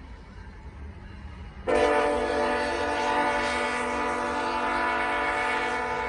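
Train horn sounding one long, loud, chord-like blast that starts about two seconds in and holds to the end, over a steady low rumble.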